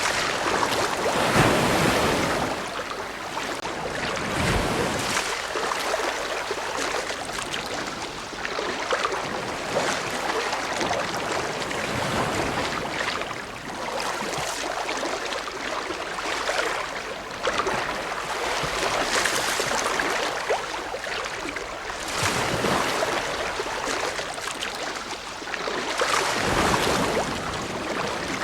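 Ocean waves breaking and washing on a shore, a continuous surf noise that swells with each wave every few seconds.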